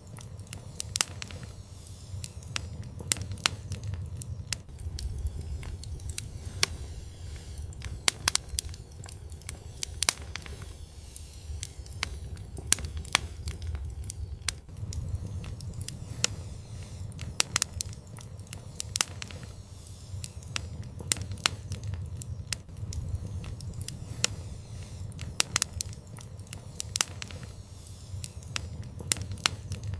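Wood fire burning in an outdoor fireplace: irregular sharp pops and crackles over a steady low rumble of flame.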